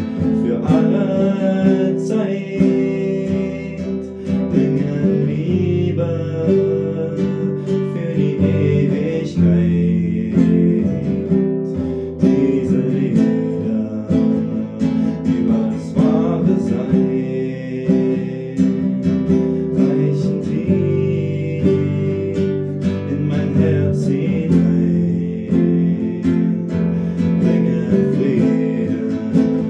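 Acoustic guitar strummed, playing a song with a steady rhythm.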